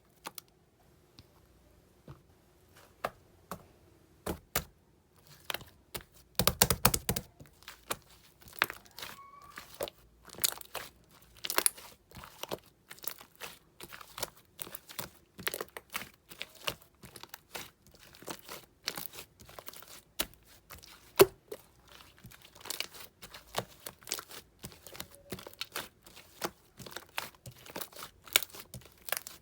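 Slime being pressed and worked by hand, giving a rapid, uneven run of sticky clicks and crackling pops, densest about six to seven seconds in.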